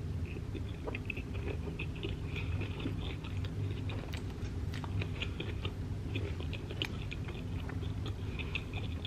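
A person chewing a mouthful of soft shrimp taco close to the microphone: many small wet clicks and crackles, over a steady low hum.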